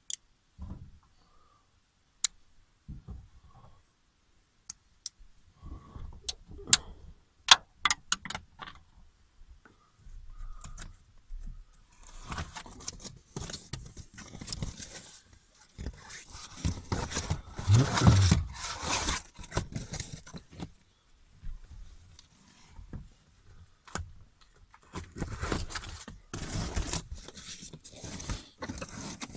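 Reflective window covers being pulled off car windows and handled: a few sharp clicks and snaps at first, then stretches of rustling and crinkling of the reflective material, loudest about two-thirds of the way through.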